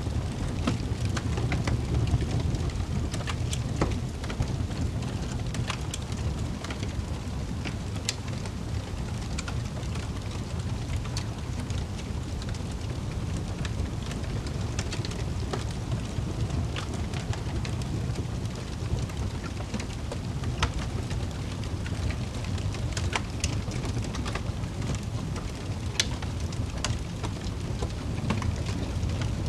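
Wood fire in a fireplace burning steadily: a low, even rumble with frequent irregular crackles and sharp pops.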